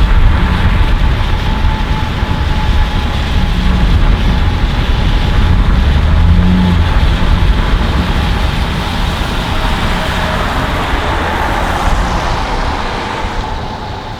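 Car driving, heard from inside the cabin: engine and road noise with a heavy low rumble, easing off over the last few seconds.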